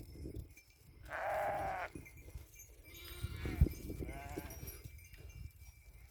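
Sheep bleating: one loud bleat about a second in, then weaker bleats around the middle, with a single sharp knock among them.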